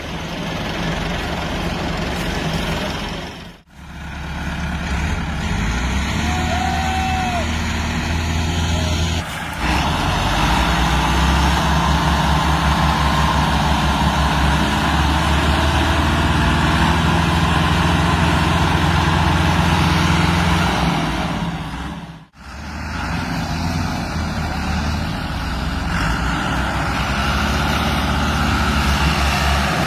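Tractor diesel engines running hard, their engine note changing in pitch as they work. The sound drops out for a moment twice.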